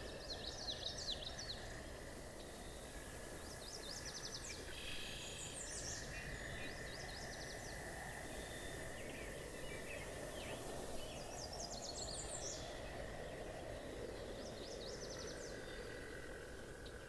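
Songbirds chirping and twittering in short bursts every few seconds over a steady low hum of outdoor city background noise.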